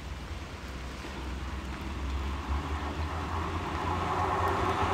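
ScotRail Class 158 diesel multiple unit approaching on the line, a low rumble that grows steadily louder as it nears.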